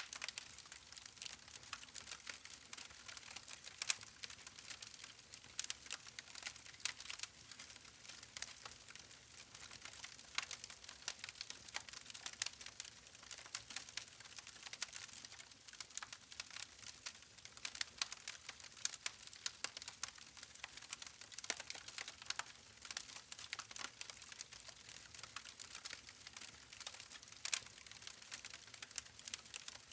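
Wood fire burning steadily, logs crackling and popping with many sharp, irregular snaps over a soft hiss.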